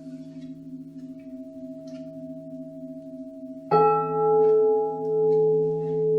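Singing bowls ringing: a held, softly pulsing tone, then about two-thirds of the way through a bowl is struck. Its ring then swells and fades in slow waves about once a second.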